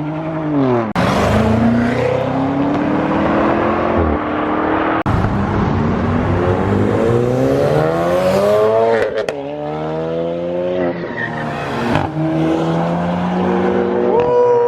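Cars accelerating hard past one after another, their engines revving up with a climbing pitch and cutting off sharply several times as they shift or lift, over a wash of exhaust and tyre noise.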